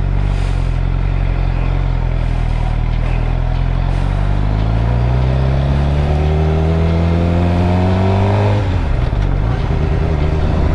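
Suzuki GSX-R 600 inline-four sport-bike engine running under way. The revs climb steadily for about four seconds, then drop abruptly near the end.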